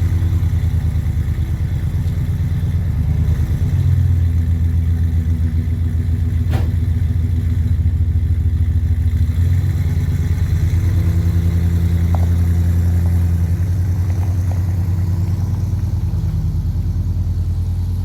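LS V8 engine of an offroad rig running steadily just after being started, a low rumble with small shifts in pitch now and then.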